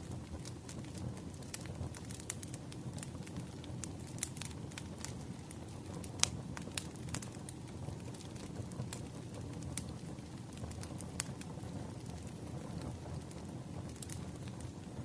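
Firewood burning, crackling and popping in irregular sharp snaps over a steady low rumble of the flames. The loudest pop comes about six seconds in.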